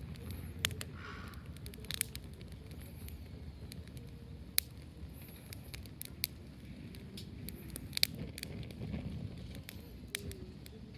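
Dry fallen leaves and twigs being cleared aside by hand, rustling and crackling, with scattered sharp snaps over a low background rumble.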